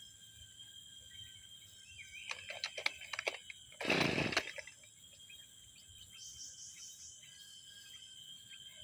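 A two-stroke brushcutter's recoil starter pulled once, a short loud rasp about four seconds in, after a few clicks of handling; the engine does not catch, typical of a machine left unused for six months that is hard to start.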